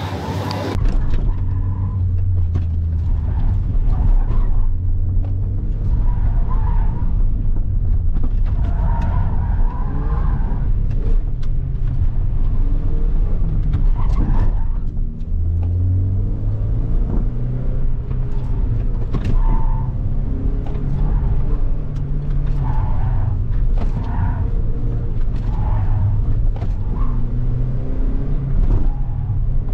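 Volkswagen Golf street car driven hard around a slalom course: the engine revs up and down continuously, with short tyre squeals now and then.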